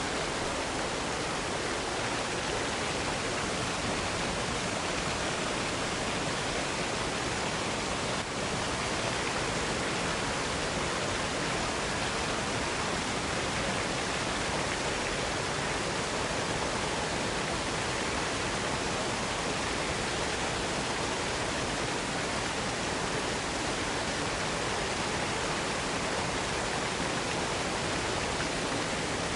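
Waterfall pouring in a steady, unbroken rush of white water.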